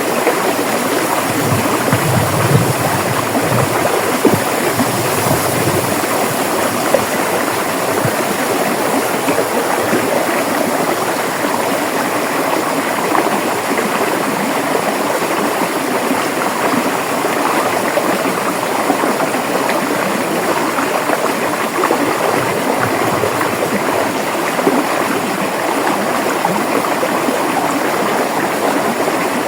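River water flowing steadily over rocks: a continuous rushing and babbling with no pauses.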